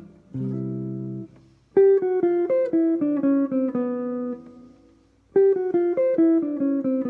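Guitar plays a held chord, then a quick jazz single-note lick over a ii–V–I in C, falling in pitch note by note; the lick is played twice.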